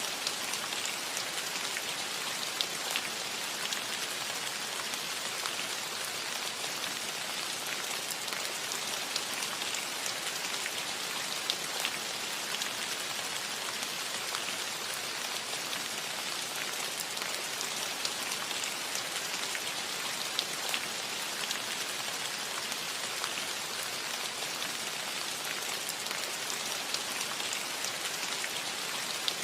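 Steady rain falling on a metal roof: an even hiss with many small, sharp ticks of individual drops striking the metal.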